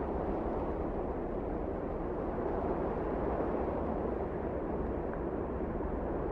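Wind blowing steadily: an even rushing noise with a low rumble underneath.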